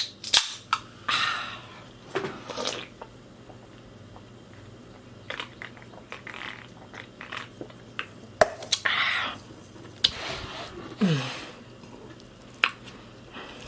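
A person eating: chewing and mouth sounds, with scattered sharp clicks and a few short breathy noises.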